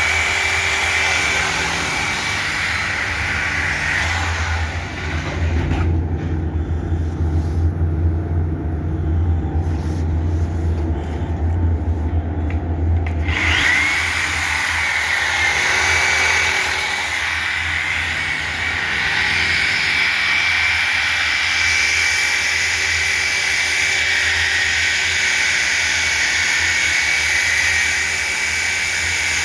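A motor-driven tool running steadily for the whole stretch, with a constant high whine over a noisy hum.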